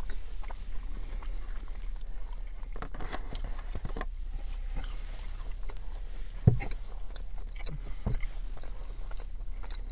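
Close-up chewing and eating noises, with light scrapes and clicks from a foam takeout tray, over a steady low hum. A sharp thump comes about six and a half seconds in and a smaller one near eight seconds.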